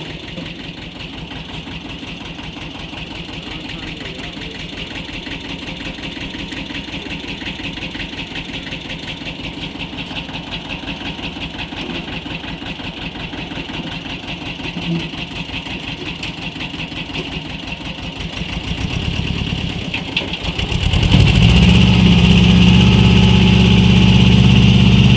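Tractor engine running steadily, growing slowly louder, then revving up sharply about 20 seconds in and holding at higher revs as it takes up the load of towing the pickup.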